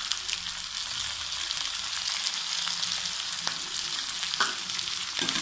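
Chicken, onions and garlic frying in oil in a kadai: a steady sizzle with scattered crackles, and two brief knocks a little past the middle.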